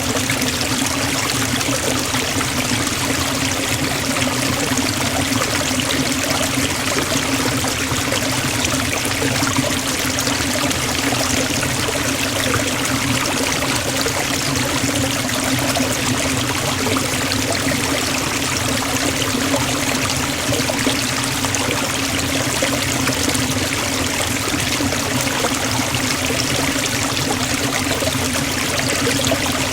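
Waterfall splashing steadily into a forest stream, a constant even rush of water.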